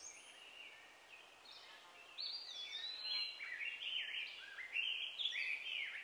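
Birds calling: a run of short chirps that slide up and down in pitch, faint at first, then busier and louder from about two seconds in.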